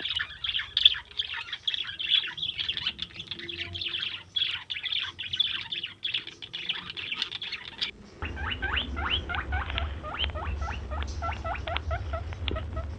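High-pitched chirping calls from small animals: for about eight seconds a dense, rapid chatter, then, after a sudden change, a series of short rising squeaks, about three a second, over a steady low hum.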